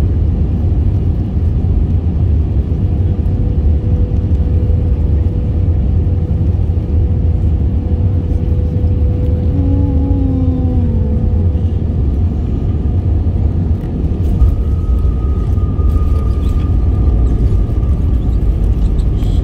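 Airliner cabin noise: a steady low rumble of jet engines and airflow heard from inside the cabin, with faint steady engine tones and a short falling tone about ten seconds in.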